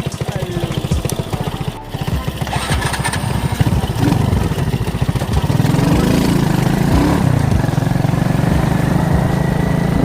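Alpha moped's small engine running under way with a fast, even pulsing; it dips briefly about two seconds in, then grows louder with its pitch wavering as it revs from about four seconds in.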